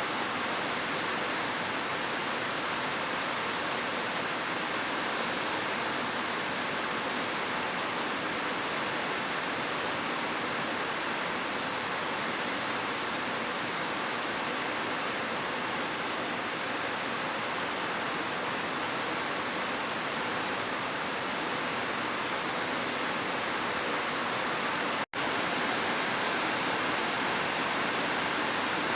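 Heavy rain falling as a steady, even hiss, which cuts out for an instant a few seconds before the end.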